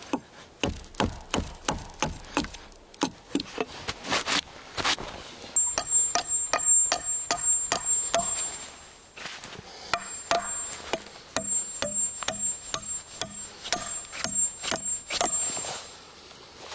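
Repeated strikes of a tool on wood, sharp knocks at first, then a quick steady run of ringing blows for most of the rest.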